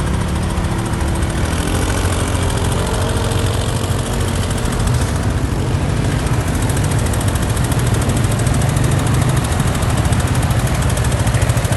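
A vehicle engine running steadily, its pitch rising briefly about two seconds in.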